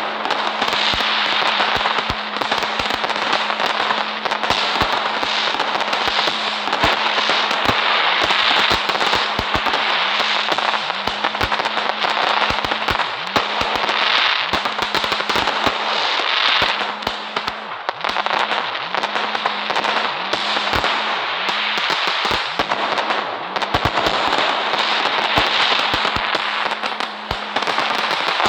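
Fireworks crackling and popping without a break: a dense stream of rapid sharp pops over a continuous hiss. A steady low hum runs underneath.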